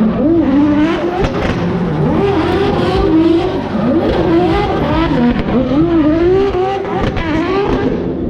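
Single-turbo 2JZ inline-six in a drift car revving hard, the pitch climbing and dropping about once a second as the throttle is worked through the slide, with tyres squealing and scrubbing underneath.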